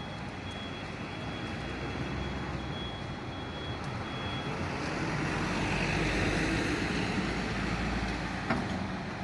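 A heavy fire truck's diesel engine running, the rumble growing louder toward the later part and easing near the end. A thin steady high tone runs alongside it and stops about four and a half seconds in.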